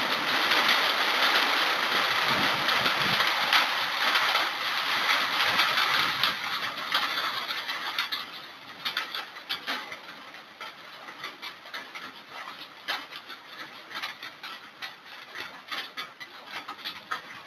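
Rain falling, heavy and steady at first, then easing about seven seconds in to a lighter patter of separate drops and drips.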